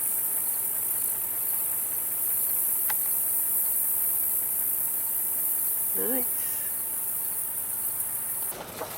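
Steady, high-pitched chorus of insects, which cuts off suddenly near the end.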